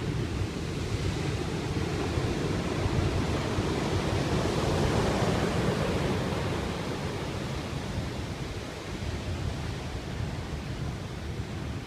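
Heavy sea surf after a typhoon, waves breaking and rushing on the shore in a steady roar that swells to a peak about halfway through and then eases off.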